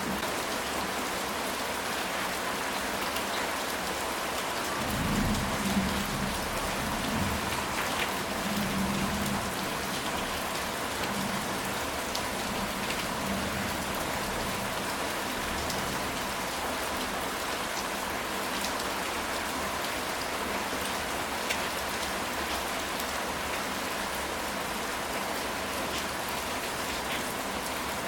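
Steady rain falling on a ceramic tile roof, an even hiss with scattered sharp drop ticks. A low roll of distant thunder starts about five seconds in and fades out by about ten seconds.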